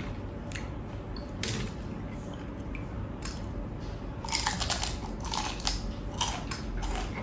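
Crispy fried chicken skin crunching as it is bitten and chewed close to the microphone, with scattered crunches at first and a denser run of crunches from about four seconds in.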